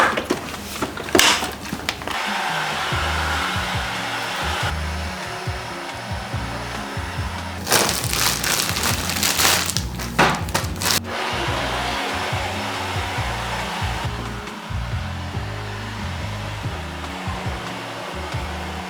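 Vacuum cleaner running steadily as the floor is cleaned, with a few sharp knocks about halfway through, over background music.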